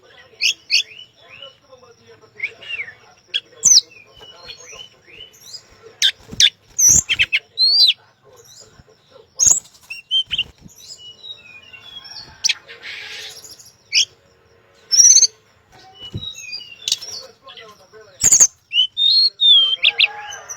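Tledekan songbird singing in short bursts of high chirps, quick whistled notes and sharp clicking calls, with brief gaps between them. A short rustling hiss comes about two-thirds of the way through.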